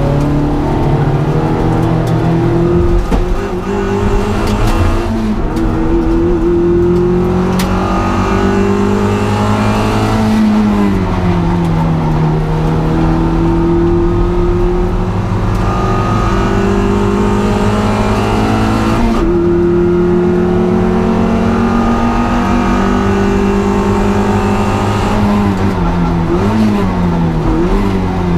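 Honda Integra DC2's four-cylinder engine running hard under race load. Its pitch rises and falls with the throttle and gear changes, dips about ten seconds in, and gives quick up-and-down blips near the end as it shifts down.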